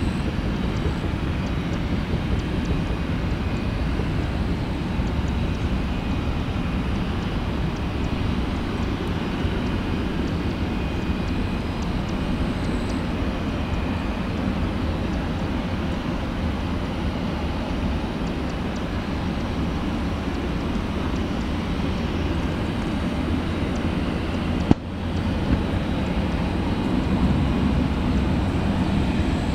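Boeing 737-400's CFM56 jet engines running, a steady, low-heavy rumble. About 25 seconds in there is a single sharp click with a momentary drop in the sound.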